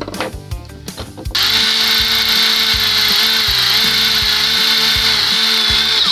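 Power drill running steadily for several seconds, its pitch wavering slightly under load, drilling a hole into an old outboard gearcase seal so that a screw can be driven in to pull the seal out. It starts about a second in and cuts off suddenly near the end.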